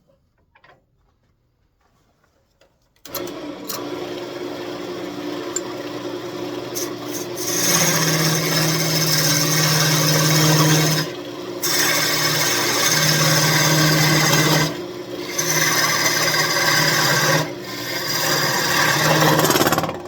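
Near silence, then a wood lathe running from about three seconds in. From about seven seconds a steel parting tool cuts into the spinning walnut in four passes with short breaks between them.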